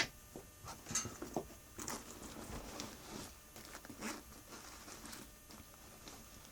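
Faint, irregular rustling with a few light clicks, the clearest at the start and about one, two, four and five seconds in.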